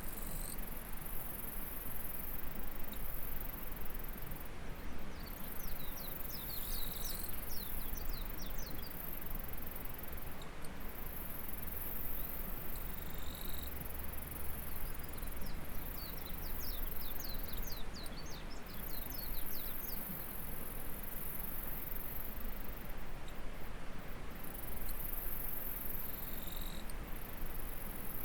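Steady running water of a stream beside a rice paddy, under a high insect chorus that drops out briefly every few seconds. Twice, a rapid run of short high chirps rises above it.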